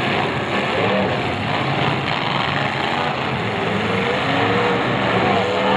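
Several demolition derby cars' engines running and revving together, their pitches rising and falling over one another in a steady, unbroken din.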